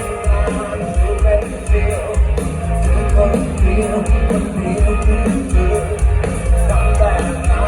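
Rock band playing live, with a male singer over a steady heavy drum beat.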